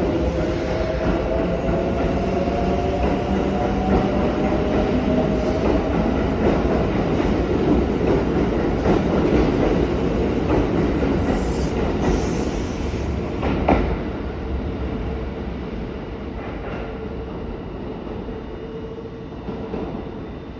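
Kintetsu 5800-series electric train pulling out and gathering speed. The traction motors whine in several tones that rise slowly in pitch over the first few seconds, over steady wheel-and-rail running noise. A sharp clank comes about fourteen seconds in, after which the sound fades as the train moves away.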